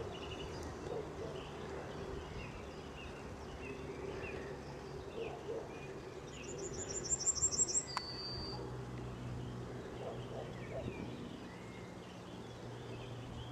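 Birds singing: scattered short chirps, and a little past halfway a fast trill of about ten high rising notes followed by one brief high note, over a steady low hum.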